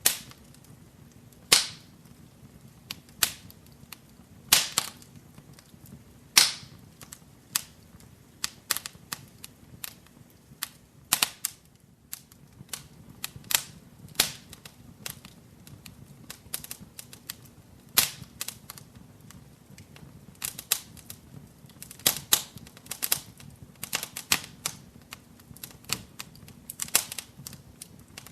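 Wood fire burning in a fireplace, crackling with irregular sharp pops and snaps, a few of them loud, over a faint low hiss of the flames.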